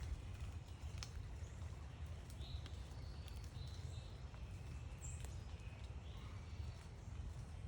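Faint, scattered short bird chirps over a steady low rumble, with a couple of sharp ticks about one second and five seconds in.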